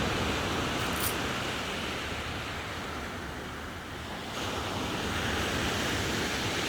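Sea surf washing onto the shore, a steady rushing noise that eases a little about halfway through and swells again.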